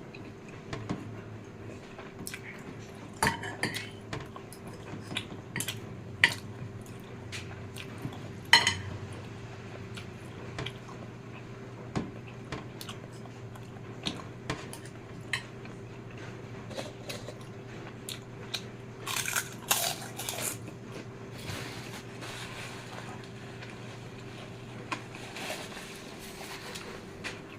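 Cutlery clinking against a plate while fried noodles are eaten: scattered sharp clicks with some chewing, over a steady background hum.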